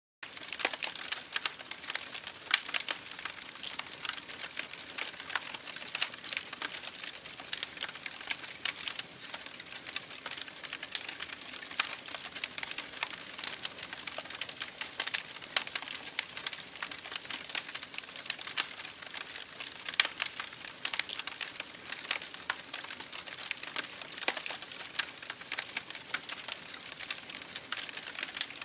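Wood campfire crackling: a steady, dense run of small, irregular crackles and snaps, with a few louder pops standing out at about two and a half, six and twenty seconds in.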